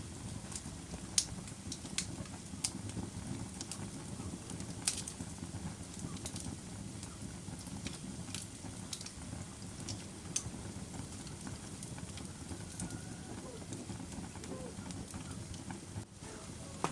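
Wood fire burning in a fireplace: a steady low rumble of flames with sharp crackles and pops at irregular intervals, a few of them louder snaps.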